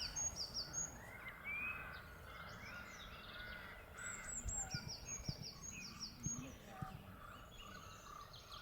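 Birds calling outdoors: runs of short, high, repeated chirps and a few lower gliding calls, fairly faint.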